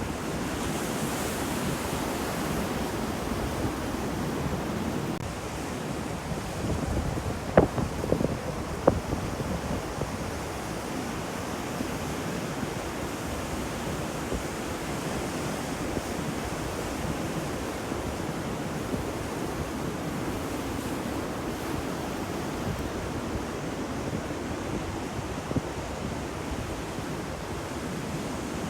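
Sea waves washing steadily onto a shore, with wind on the microphone. A few short sharp pops come about a quarter of the way in.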